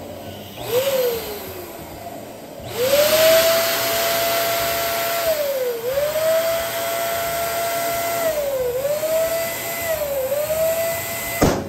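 Electric balloon pump whining: a short burst about a second in, then a long steady run from about three seconds with its pitch dipping briefly three times. Near the end a balloon pops with a sharp bang.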